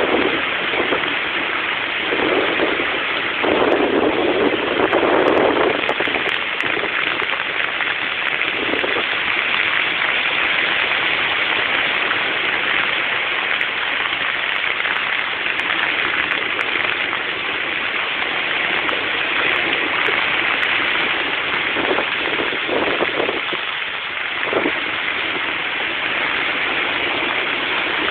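Stormy sea: waves breaking and washing on the shore in a continuous rushing noise, swelling louder about four seconds in and again a little past twenty seconds in.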